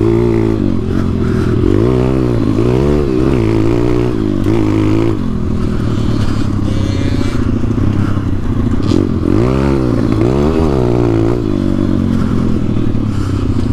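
Dirt bike engine running, its revs rising and falling several times, most clearly around two seconds in, at about four to five seconds and again around nine to eleven seconds.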